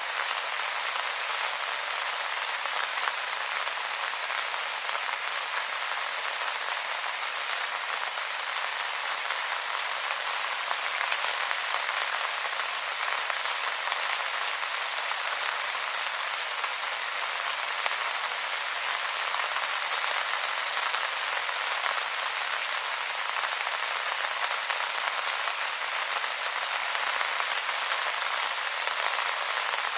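Steady rain pattering on wet leaves: a dense, even hiss of many small drops.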